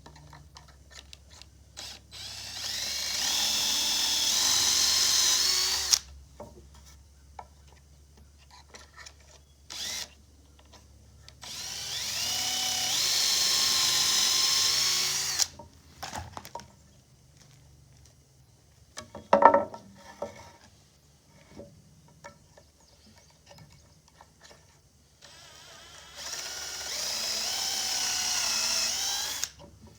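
Power drill boring pocket holes into 2x4 lumber: three runs of about four seconds each, the motor's whine stepping up in pitch during each run. Clicks and knocks of handling come between the runs, with one sharp loud knock about two-thirds of the way through.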